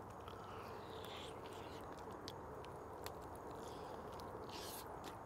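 Faint chewing of a bite of smoked beef rib, with a few soft mouth clicks.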